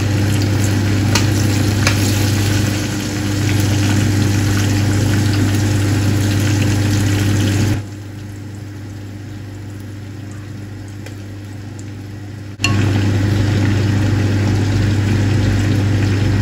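Chicken drumsticks frying in sunflower oil, a steady sizzle with scattered crackles over a steady low hum. The sizzle drops away abruptly for about five seconds midway, then returns.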